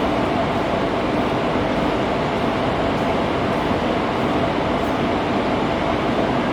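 Passenger train running, heard from on board: a steady rumble and rush with a faint hum through it.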